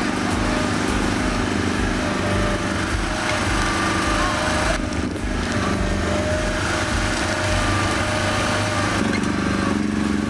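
Small engine of a Komatsu PC-01 mini excavator running steadily at working speed, its pitch shifting briefly about halfway through and again near the end.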